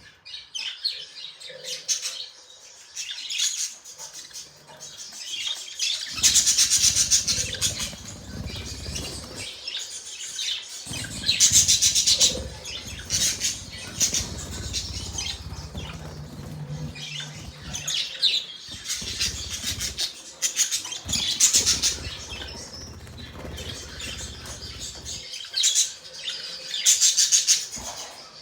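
Pet budgerigars chirping and chattering, with loud bursts of rapid high-pitched chatter every few seconds over softer ongoing chirps.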